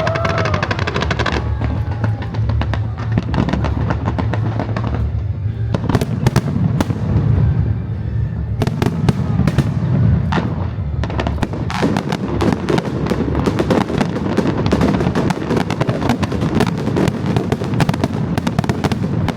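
Fireworks display: scattered bangs that thicken into a rapid, dense barrage of bangs and crackles over the second half, with music playing underneath.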